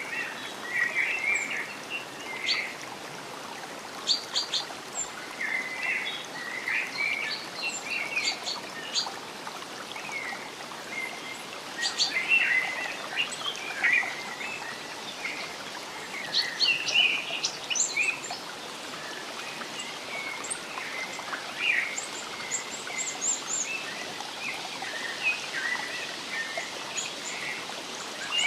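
Several birds chirping and singing in short, overlapping calls over a steady rush of water.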